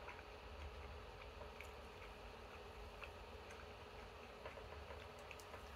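Faint chewing of a soft bread sandwich: small scattered mouth clicks over a low steady room hum.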